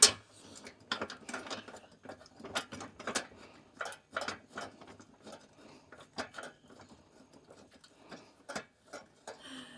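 Irregular clicks and metal knocks of hand tools working a bolt into place.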